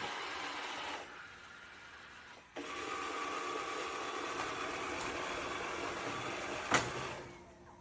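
Yeedi M12 PRO+ robot vacuum running with a steady whirring hiss. It drops off about a second in, comes back with a click a second and a half later, and stops after a sharp click near the end.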